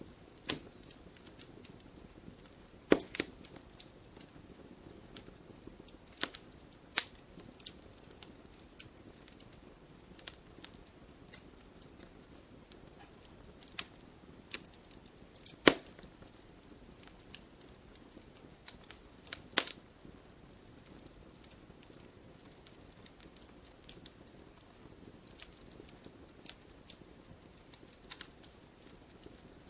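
Campfire crackling: irregular sharp pops and snaps over a soft steady hiss, with a few louder snaps scattered through.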